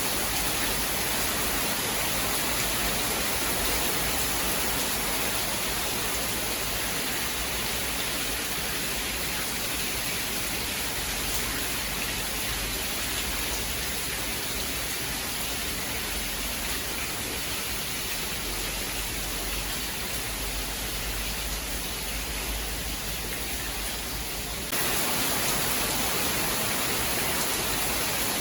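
Steady, even hiss of heavy rain. About 25 seconds in the sound changes abruptly to a slightly louder, brighter stretch.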